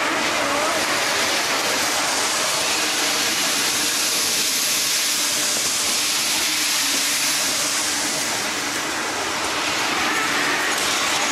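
A convoy of C36-7i diesel locomotives rolling past close by: a steady rushing of steel wheels on the rails, with no engine note standing out.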